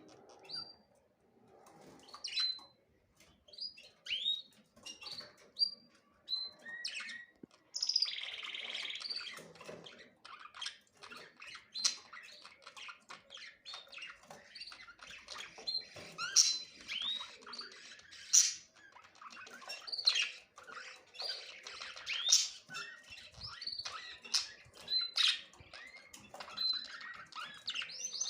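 Small birds chirping and calling over one another in short, quick notes, sparse at first and becoming a busy, continuous chatter about eight seconds in.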